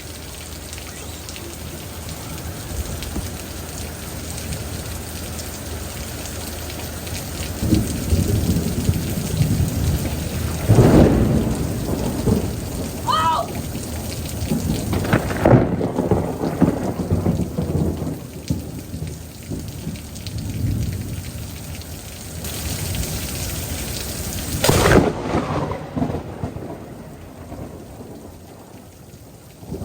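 Steady rain falling during a thunderstorm, with thunder rumbling several times and one sharp clap about 25 seconds in.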